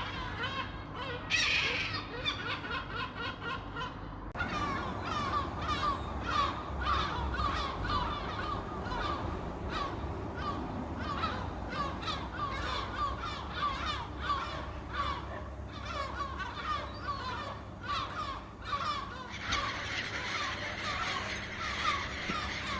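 A flock of gulls calling, many short cries overlapping without a break.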